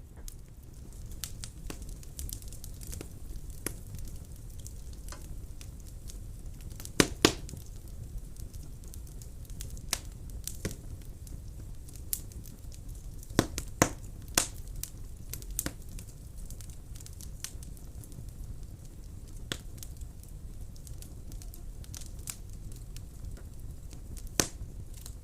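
Wood fire burning in a fireplace: a steady low rumble of flame with irregular sharp crackles and pops, the loudest pops coming about 7 seconds in, around 13 to 14 seconds, and near the end.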